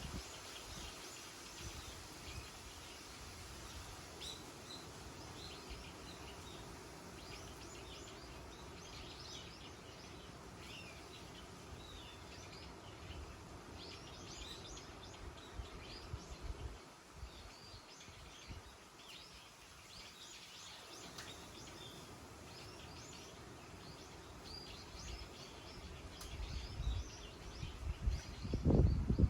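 Small birds chirping and twittering again and again over a steady outdoor background hiss. Wind gusts rumble on the microphone for the last few seconds.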